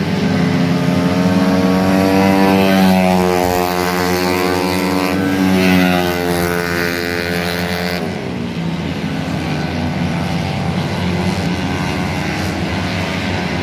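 Motorcycle engine being revved during a tune-up. Its pitch climbs and falls through drawn-out revs, then drops back to a rougher, steady running about eight seconds in.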